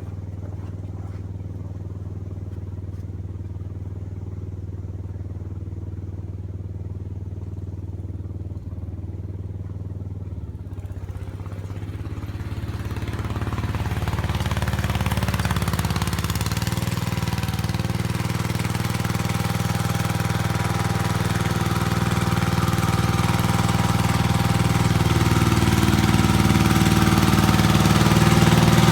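Briggs & Stratton engine of a Gravely 8163 tractor idling steadily as it warms up after a cold start in freezing weather, growing louder from about twelve seconds in.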